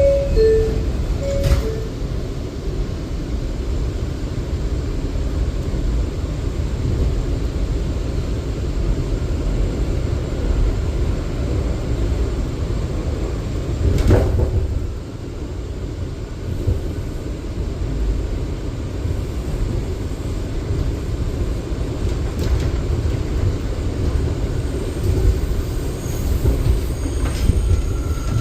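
R179 subway car running between stations: a steady low rumble of wheels on rail, with a sharp knock about halfway through. Near the end a thin wheel squeal starts.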